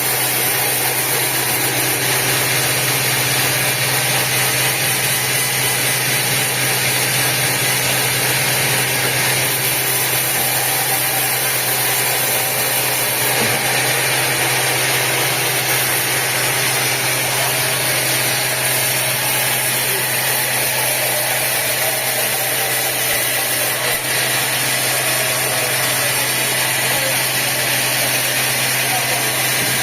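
Sawmill machinery running steadily: a constant engine drone with an even hiss over it, with no change in pitch or level.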